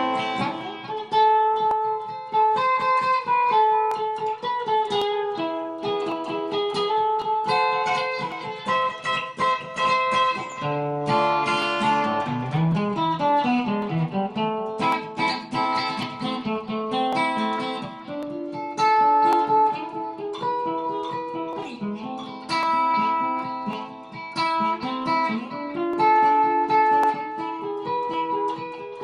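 Instrumental break on a plucked string instrument: quick picked single notes and runs, with a run stepping down in pitch a little before the middle.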